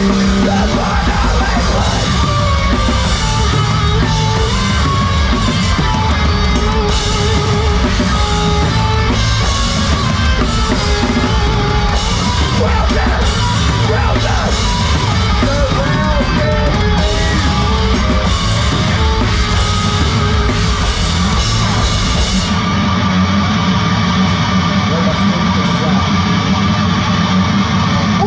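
Live heavy rock band playing loud: distorted electric guitars and bass over a drum kit with crashing cymbals. About 22 seconds in the drums and cymbals drop out, leaving the guitars ringing on alone.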